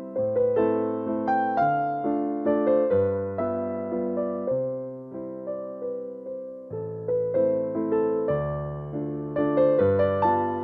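Background music: a gentle piano melody with soft bass notes, each note struck and fading.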